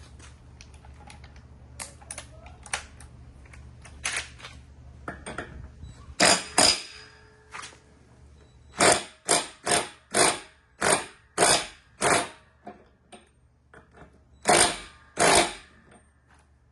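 Hand-tool work on a mower part: scattered light clicks and knocks, then a run of short, loud strokes about two a second, with two more near the end. A low hum stops about six seconds in.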